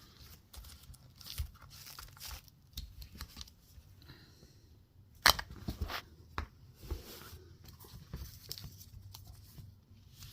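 Hand handling of an engine wiring harness and its labels: scattered crinkling, rustling and tearing sounds, with one sharp click about five seconds in.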